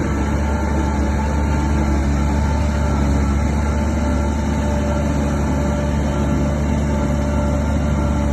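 Heavy diesel engine of earthmoving machinery running steadily under load, a low, even drone with a few steady tones above it.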